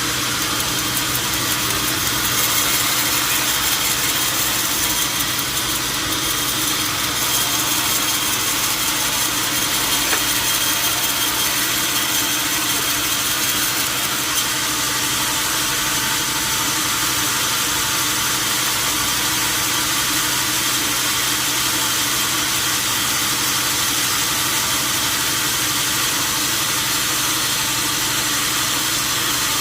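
Steady machine noise: a constant hiss with a faint low hum underneath, unchanging throughout.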